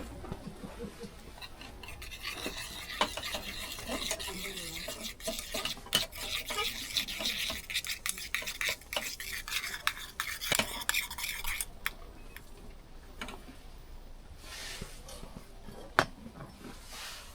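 Stirring and scraping inside a small metal dalgona ladle, a fast scratchy rasp with light clinks that runs from about two seconds in until about twelve seconds in. After that, only a few scattered knocks.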